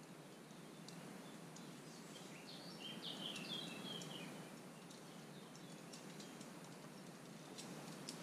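Faint outdoor background hiss, with a bird chirping a quick run of high notes about two to four seconds in. Scattered faint clicks.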